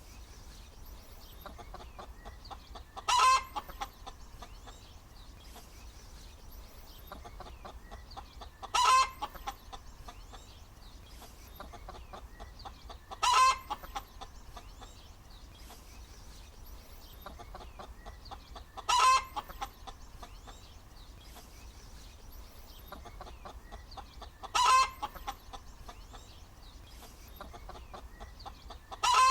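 Hen cackling: a short, loud pitched squawk about every five seconds, six in all, with softer clucking in between.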